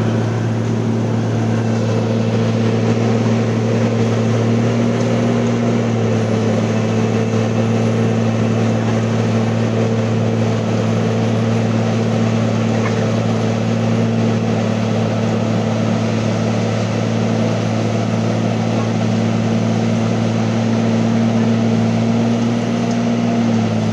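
An engine running steadily at a constant speed, its pitch stepping up slightly about six seconds in and dropping back near the end.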